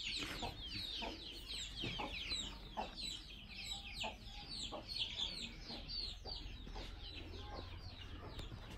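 Birds chirping: many short, high, falling chirps, several a second and overlapping.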